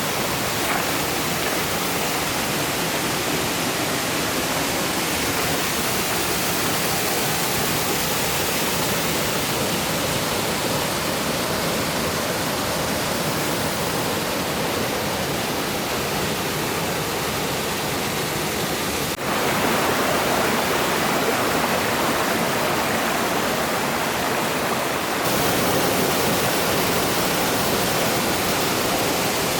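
Steady rushing water of a mountain stream. It shifts abruptly to a louder, fuller rush about two-thirds of the way through, and again near the end.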